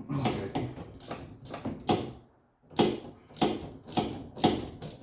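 Hand tools working a steering joint: a run of quick, rhythmic scraping strokes, about three a second, with a short pause about two seconds in.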